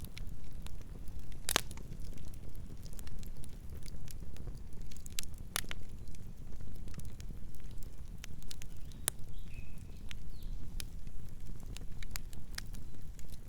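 Wood campfire burning: a steady low rumble under irregular sharp crackles and pops, the loudest pops coming about one and a half and five and a half seconds in.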